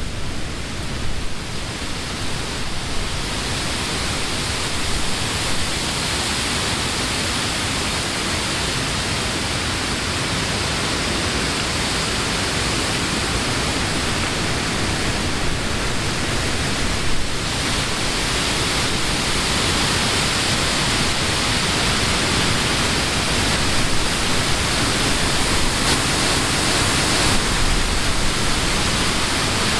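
Summer wind blowing through leafy trees: a steady rushing hiss of leaves over a low rumble. The leaf hiss grows a little stronger about halfway through.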